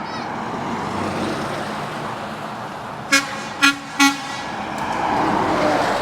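A truck horn gives three short toots about half a second apart, over the steady noise of running engines. Engine noise swells near the end as a vehicle passes.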